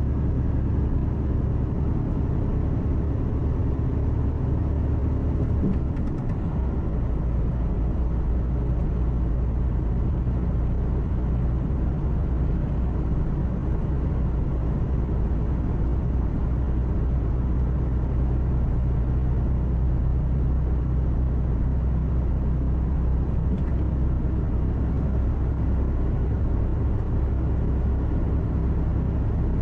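Truck's diesel engine running steadily with tyre and road noise, heard inside the cab as a low, constant hum. About six seconds in, the engine note shifts briefly.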